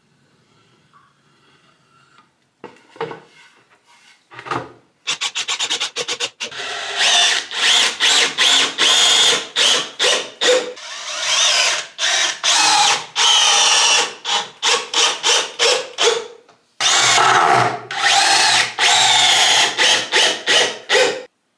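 A tool worked back and forth on wood in quick, even rasping strokes. It starts a few seconds in, pauses briefly about three-quarters of the way through, resumes, and stops just before the end.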